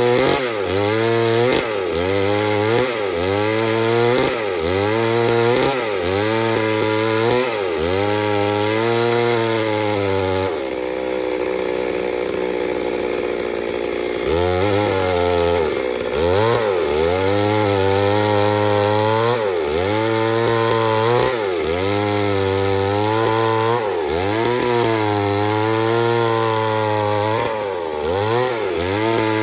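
Chainsaw cutting into wood. The engine note dips and recovers about every second and a half as the chain bites under load. About a third of the way in it runs at a steady, even pitch for a few seconds, then the rhythmic loaded dips resume.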